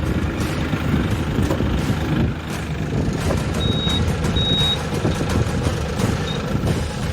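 Engine of an EG220 farm tractor running steadily under a dense low rumble during an operation check. Two short high beeps come about three and a half seconds in, with a brief third one near the end.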